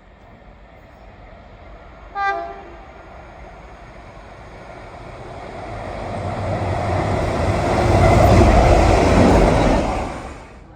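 A train sounds one short horn blast, then runs through the station, its rumble and wheel noise building to a loud peak before cutting off suddenly near the end.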